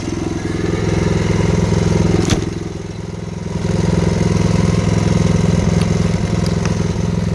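An engine running steadily, a low droning hum that dips briefly after a sharp click about two seconds in.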